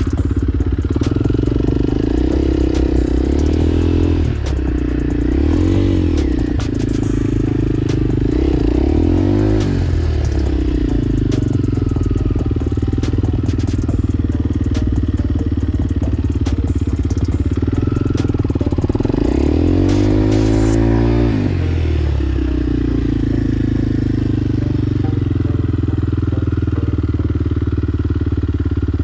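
Motorcycle engine running under way, its revs rising and falling several times: a few seconds in, again near the middle, and once more around two-thirds through. It holds steady in between, with a scatter of light clattering ticks over it until about two-thirds through.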